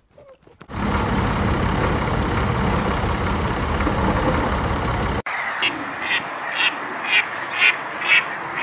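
Vintage tractors driving past on a wet road: a loud, steady run of engine and tyre noise that starts just under a second in. About five seconds in it cuts off sharply to white Pekin ducks quacking repeatedly, about two quacks a second.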